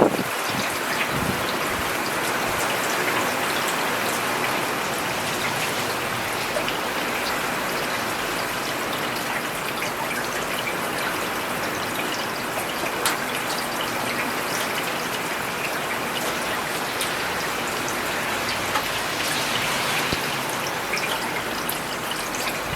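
Steady rain falling on a paved city road: an even hiss with scattered ticks of single drops.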